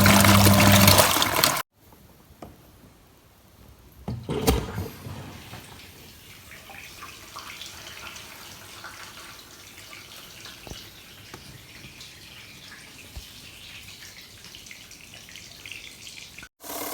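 THANKO small twin-tub washing machine: its motor hums loudly for the first second and a half. After a cut there is a knock about four and a half seconds in, then quieter water trickling and splashing in the tub.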